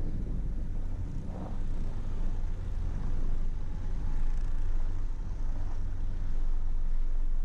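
A car driving on a road: a steady low rumble of engine and tyres.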